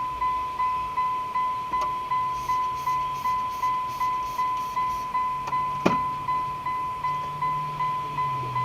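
A car's electronic warning chime dinging over and over, about two and a half single tones a second, each fading quickly, with one sharp click about six seconds in.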